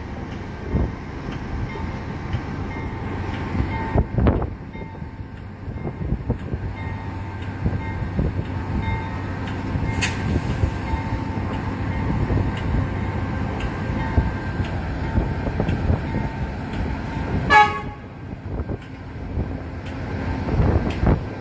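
Pacific National NR class diesel-electric locomotives hauling a loaded freight train past at low speed: steady engine rumble and rolling wagon noise, with a short high-pitched sound about three-quarters of the way through.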